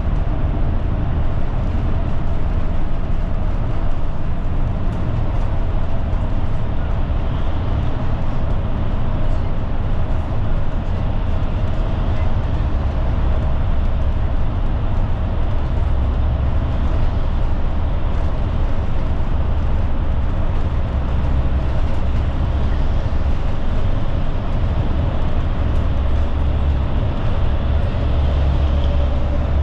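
Route bus on the move, heard from inside the cabin: a steady low rumble of engine and road noise that swells at times, with a faint steady whine above it.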